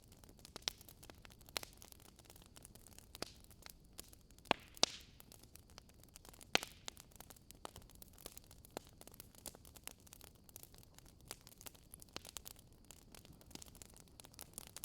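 Wood fire crackling: irregular sharp pops over a faint hiss, with the loudest few pops around five and six and a half seconds in.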